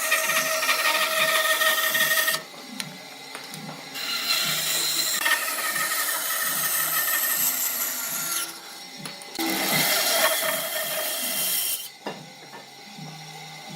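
An electric power tool working wood, with a high whine in three bursts of a few seconds each and short quieter gaps between them.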